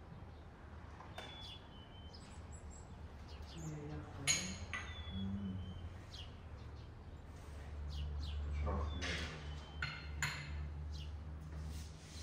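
Small birds chirping intermittently in short high calls. A sharp clink sounds about four seconds in, and a low hum swells in the second half.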